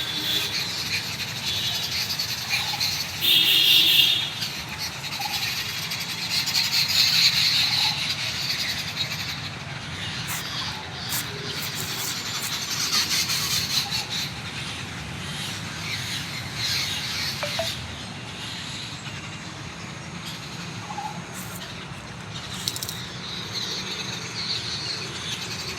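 Many small birds chirping and twittering continuously, with a louder call about three seconds in.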